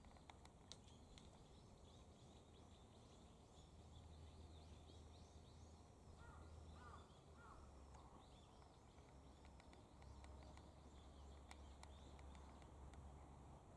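Faint outdoor ambience: small birds chirping in short, scattered calls, with a steady low rumble underneath.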